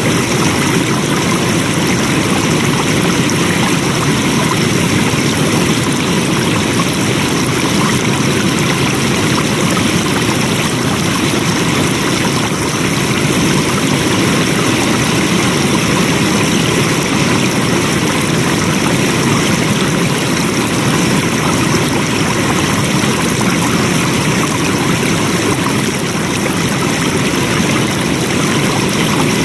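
Flowing water: a steady, even rush of a stream, with no change in its flow.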